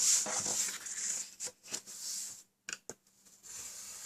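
Cardstock being scored and handled on a scoring board: several short scratchy strokes and paper rustles with a few light clicks.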